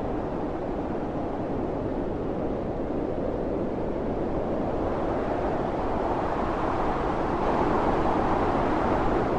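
Strong wind of a snowstorm blowing steadily, a rushing noise that swells and grows louder over the last few seconds.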